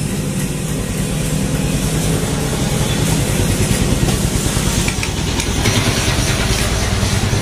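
Bajaj Pulsar 150 DTS-i's air-cooled single-cylinder engine running at a steady idle, a continuous low pulsing engine note.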